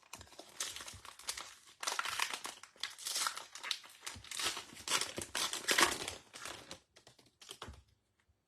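Trading-card pack wrapper being torn open and crinkled in the hands: a dense, irregular crackling that dies away near the end.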